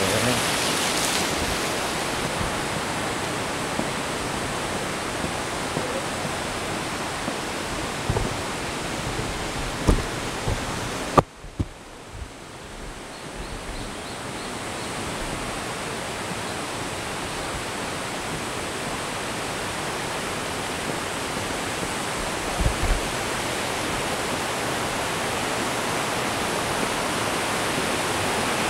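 Steady rush of falling and flowing water from a mountain stream and waterfall, with a few low thumps. The rush drops away suddenly about eleven seconds in, then builds back up over the next few seconds.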